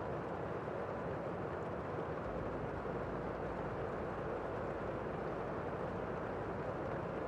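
Steady rain heard from indoors: an even, muffled hiss of rainfall with no separate drops standing out.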